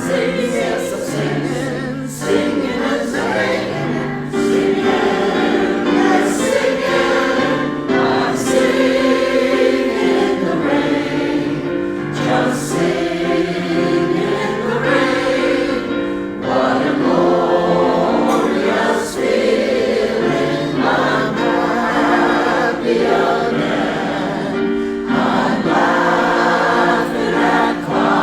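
A choir singing in harmony, holding chords that shift every second or two.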